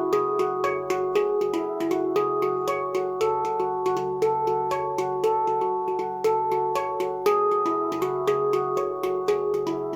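Luna Eira steel hand drum played melodically, its notes struck in a quick, even run of about four a second, each ringing on and overlapping over a sustained low note.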